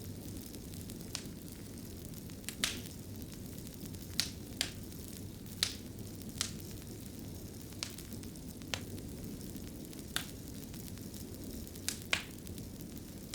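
Fire burning in a fireplace: a steady low rumble of flame, with sharp crackles and pops at irregular moments, about a dozen of them.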